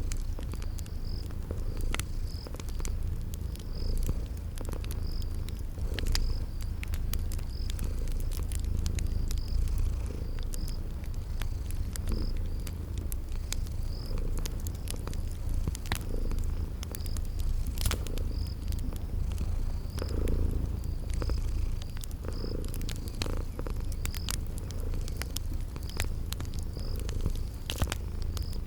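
A cat purring steadily, a low rumble that swells and eases about every two seconds, over a crackling wood fire with scattered sharp pops. A cricket chirps about once a second.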